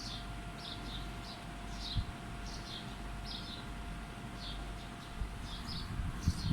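Small birds chirping: short high chirps come irregularly, about twice a second, over a low rumble and a faint steady hum.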